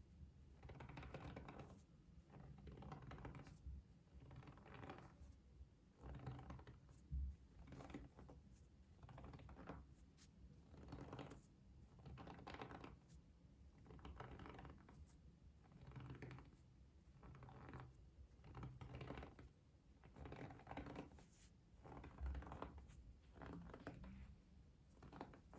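ASMR trigger sounds close to the microphone: soft, short scratchy strokes repeating about once a second, over a faint low hum.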